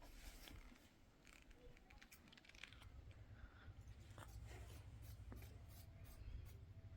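Faint scattered clicks and rustles of small handwork, with a low steady hum setting in about three seconds in.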